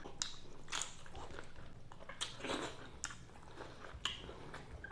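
Close-miked chewing and biting of food, with scattered short crunches and wet clicks.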